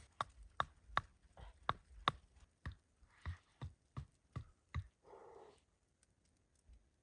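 A quick series of about a dozen sharp knocks or taps, evenly spaced at roughly three a second, stopping after about five seconds, followed by a brief rustle.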